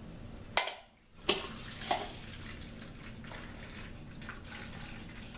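Water running steadily into a coffee pot, filling it with fresh water. It is preceded by two short clunks within the first second and a half.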